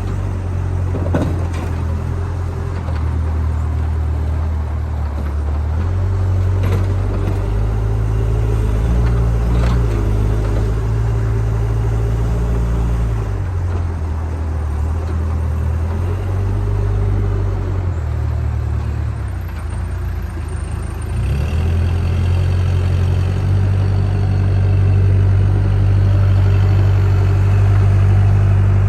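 Diesel engine of a JCB backhoe loader running, its low rumble shifting up and down in pitch several times as the engine speed or load changes.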